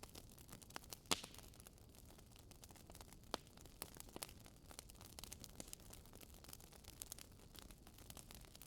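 Wood fire crackling in a Swedish fire log: a steady scatter of small sharp pops and clicks over a faint hiss, with a louder pop about a second in.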